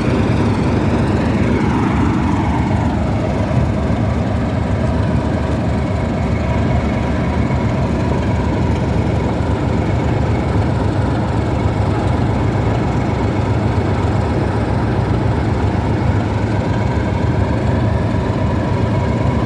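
Diesel locomotive engines of a British Rail Class 56 and a Class 31 running steadily with a deep rumble. A whine falls in pitch about one to three seconds in.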